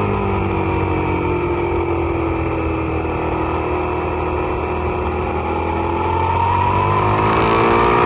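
Suzuki SV650's V-twin engine heard onboard at a track day, its revs easing off slightly and then climbing steadily through the second half as the bike accelerates.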